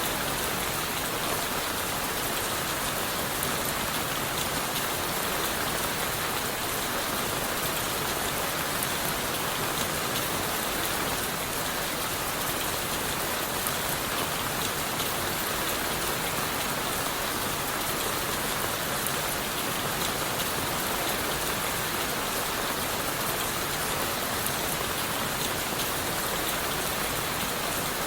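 Steady rain falling on leaves, wood and the forest floor: an even, unbroken hiss of rainfall with many fine drop patters.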